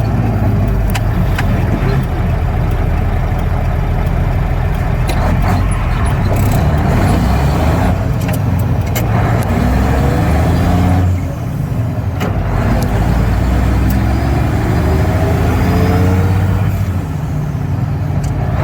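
Mack Superliner dump truck's diesel engine pulling away empty, its pitch climbing as it revs up in each gear of the 12-speed manual, heard from the cab. The engine sound drops briefly at gear changes, about eleven seconds in and again near the end.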